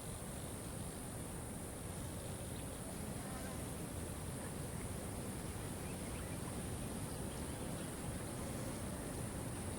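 Waterfall rushing steadily, with a constant high-pitched insect drone over it.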